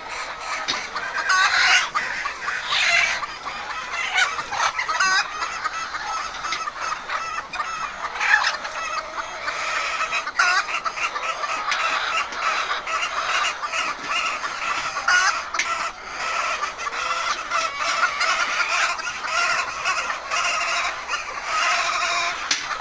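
A large flock of laying hens clucking and squawking continuously, many overlapping calls at once.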